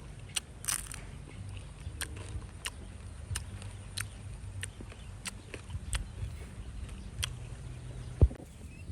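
Eating chicken feet: irregular sharp clicks and crunches of chewing, roughly every half second, over a low hum, with one louder thump near the end.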